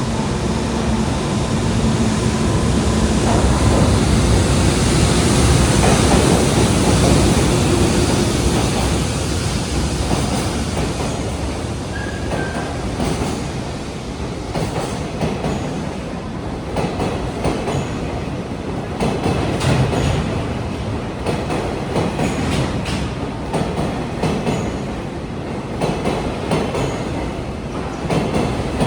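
Freight train of an EH500 electric locomotive and Koki container wagons passing at speed, loudest in the first eight seconds, then a steady run of wheel clacks over rail joints as the wagons roll by.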